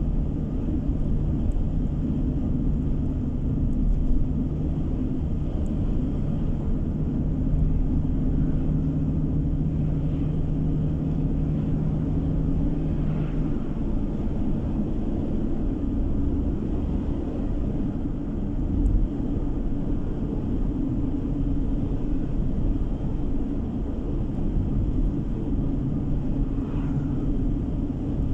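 Car driving on a road, heard from inside the cabin: steady low engine and road rumble with tyre noise, and a low hum that drops away about halfway through.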